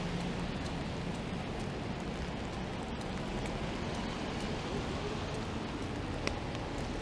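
Steady hiss of rain on a wet city street, with a low traffic hum beneath it. A single sharp tick sounds about six seconds in.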